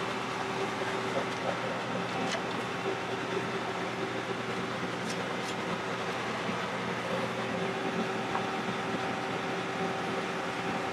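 A farm vehicle's engine running steadily while on the move: a constant humming drone, with a few faint clicks about two and five seconds in.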